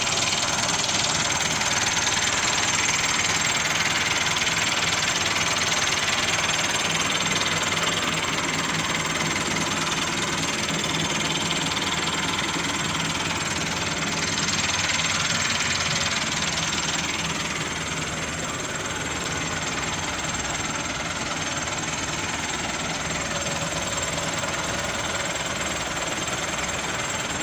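Massey Ferguson tractor's diesel engine running steadily, easing off slightly about two-thirds of the way through.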